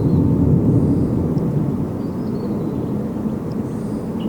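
Airbus A350's Rolls-Royce Trent XWB jet engines powering a departing airliner, heard as a steady low rumble. A few faint high chirps sound over it.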